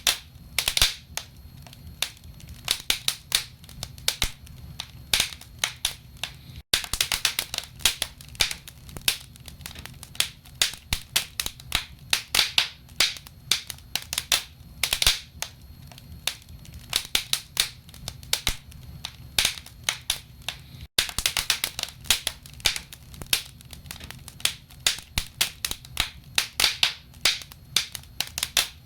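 Wood fire burning in a fireplace: logs crackling and popping with many irregular sharp snaps, over a low steady rumble of the flames. The sound cuts out for an instant twice.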